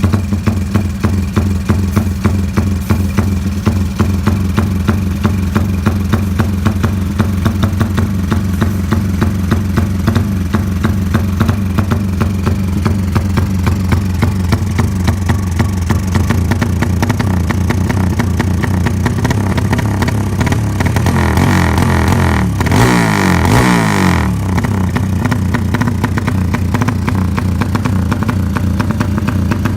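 Honda GL motorcycle's single-cylinder four-stroke engine idling through an aftermarket FanTera exhaust, with an even, loud pulsing beat. About three-quarters of the way through the throttle is blipped once: the engine revs up and falls back to idle within a couple of seconds.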